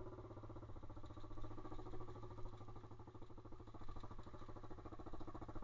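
Pit bike's small single-cylinder four-stroke engine running steadily under way, its level rising and dipping a little with the throttle.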